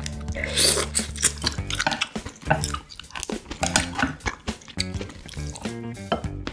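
Wet, close-up eating sounds: biting into and chewing a large piece of meat, with many short smacking clicks, over background music.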